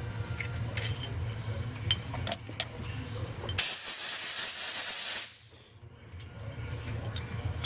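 Compressed-air blow gun blowing chips out of a freshly tapped head bolt hole in an aluminium engine block: one loud hiss lasting about a second and a half, with a few light metal clinks around it.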